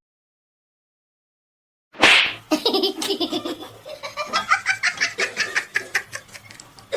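About two seconds of silence, then a sudden loud sound and a person laughing in quick, repeated ha-ha pulses that rise in pitch toward the end.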